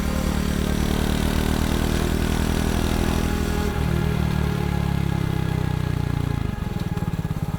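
Motorcycle engine running under way, a steady pulsing note that shifts about four seconds in and eases off briefly near the end.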